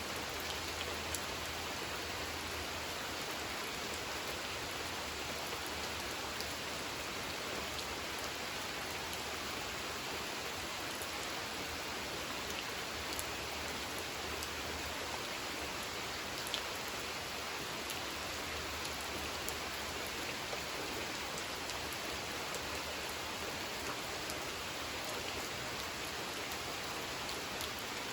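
Steady rain falling on a pond, an even hiss with scattered drop ticks.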